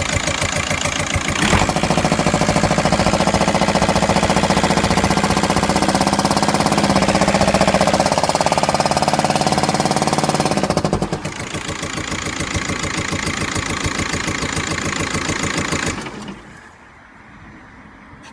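Volkswagen Golf Mk5 engine running with a loud, rapid knocking noise. The owner says it is the same hot or cold and goes away after two to three minutes of running, and does not know its cause. It gets louder about a second and a half in, eases off around eleven seconds, and drops away sharply near the end.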